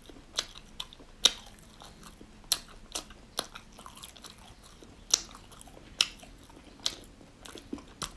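A person chewing food close to the microphone, with a sharp, crisp crunch every half second to a second.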